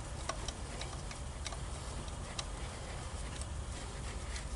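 A few sparse, light metallic clicks and taps of a nut being fitted and tightened by hand and with tools, over steady background noise.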